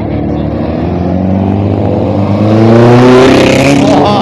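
A classic racing car's engine accelerating hard, its note climbing steadily, then dropping near the end as it shifts up a gear and starts climbing again.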